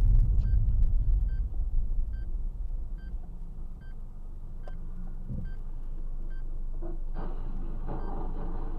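Low rumble of a car on the road, loud for the first few seconds and then settling into a steadier, quieter hum, with faint short tones repeating about once a second.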